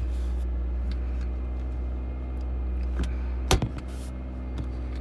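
Car engine idling inside the cabin: a steady low hum, with a sharp click about three and a half seconds in.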